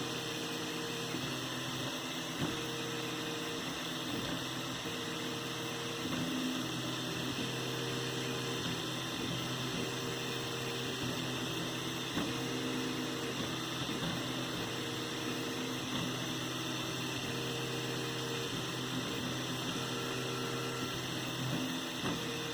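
3D printer running a print: its stepper motors hum at steady pitches that switch and change every second or so as the head moves, over a steady fan whir.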